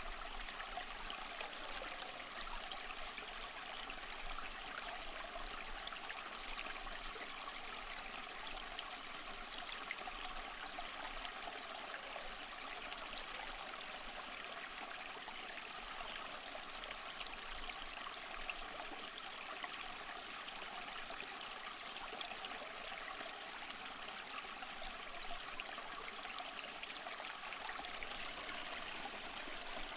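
A stream flowing steadily, water trickling and babbling over stones.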